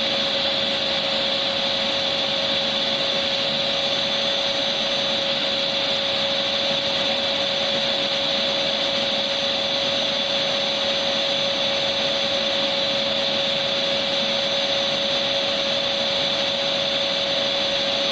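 Electric vacuum cleaner running at a constant speed: an even rush of air with a steady pitched whine that never changes.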